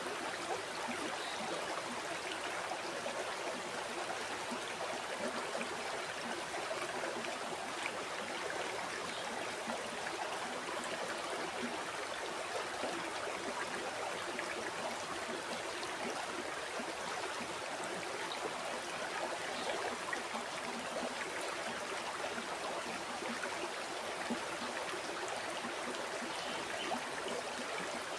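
River water flowing steadily over rocks: an even rushing with fine gurgling and splashing.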